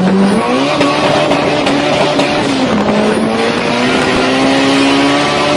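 Honda car's engine heard from inside the cabin, pulling hard at full throttle: the pitch climbs, drops sharply at a gear change about two and a half seconds in, then climbs again.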